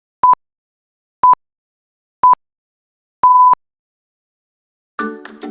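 Electronic countdown beeps: a single pure tone sounded once a second, three short beeps and then a longer one. Plucked-string music, guitar or ukulele, starts near the end.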